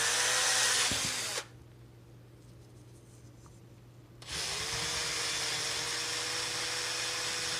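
Power drill running twice: a short run of about a second and a half, then after a pause of about three seconds a steady run whose whine climbs and settles at one pitch. It spins an engine valve against sandpaper to take carbon deposits off it.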